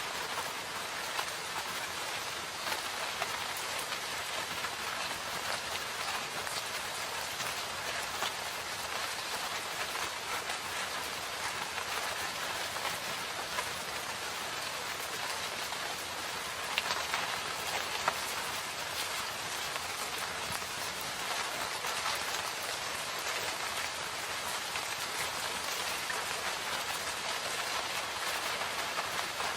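Steady rain falling in a forest, an even hiss with many small drops pattering on surfaces and a couple of louder drops around the middle.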